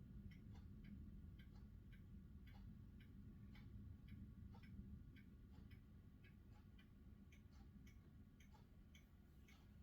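Near silence: faint sharp ticks, a few each second, over a low steady rumble.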